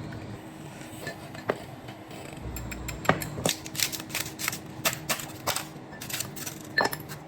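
Irregular light clicks and taps of kitchen utensils against a cup or glass, a few at first, then a quicker run from about three seconds in.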